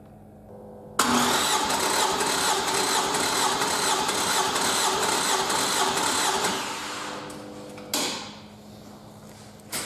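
Toyota 2AR-FE 2.5-litre four-cylinder engine on a test stand, spun by its starter: a sudden loud mechanical whir with an even beat of about three pulses a second, which winds down after about five seconds. Two sharp clicks follow near the end.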